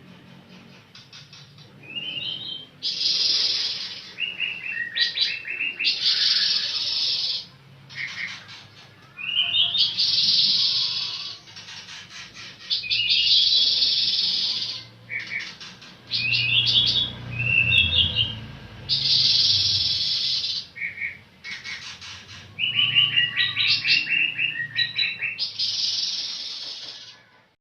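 A pancawarna songbird singing loud, repeated phrases of rapid chirps and trills, with short pauses between them.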